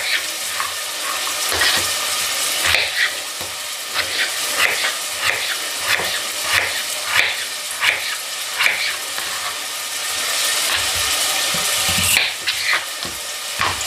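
Onion and carrot sautéing in a pot with a steady sizzle, with a knife striking a cutting board about once a second, irregularly, as potatoes are cut.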